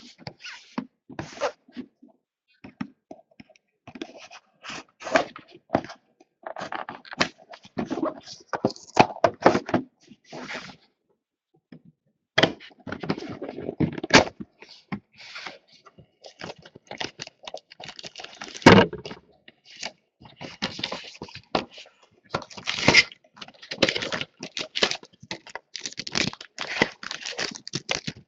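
Plastic shrink wrap being torn off and crinkled, and a cardboard trading-card box opened and its packs handled: an irregular run of tearing, crackling and small clicks. There is a single sharp knock about two-thirds of the way through.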